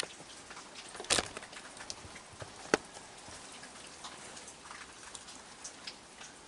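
Rain falling with scattered drops ticking on surfaces. Two sharper clicks stand out, about a second in and again near three seconds.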